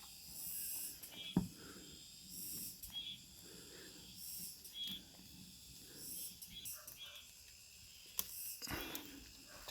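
Wood fire burning in an ondol firebox, hissing in bursts with a few sharp crackling pops.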